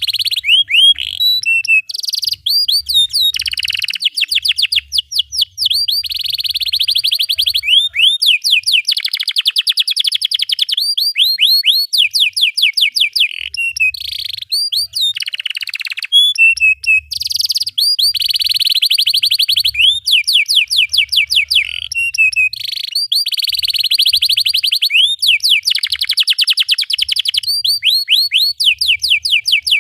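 Domestic canary singing a long, nearly unbroken song of fast rolling trills and repeated chirping notes, with quick high sweeps between the rolls.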